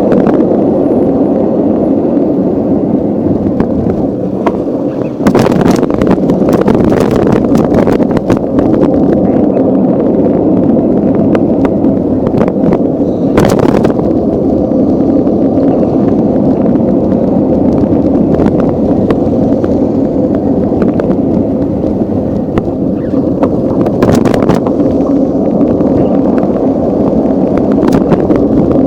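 Riding noise from a camera on a moving bike: steady wind rumbling on the microphone, with sharp knocks and rattles from going over bumps, clustered about five to eight seconds in, once around thirteen seconds and again near twenty-four seconds.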